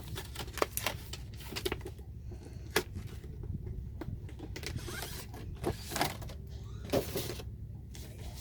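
A card-making kit's packaging being handled and opened: a run of small clicks, then louder crinkling rustles a little past halfway through.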